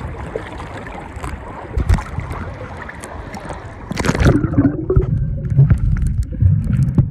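Water and wind noise aboard a boat, with a loud splash or knock about four seconds in; after it, low rumbling gusts buffet the microphone.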